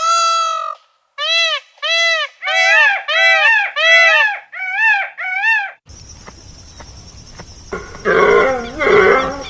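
Animal calls: one held pitched call, then a string of about nine short calls, each rising and falling in pitch. About two-thirds of the way in, these give way to a steady hiss with rougher, lower animal calls near the end.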